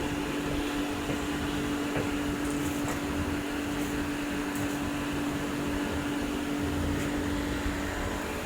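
Steady machine hum and whir, with a constant tone that stops about seven seconds in.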